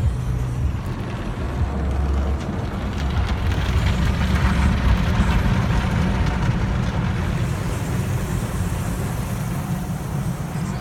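Car wash running steadily: a low vehicle rumble with a hiss of spraying water over it.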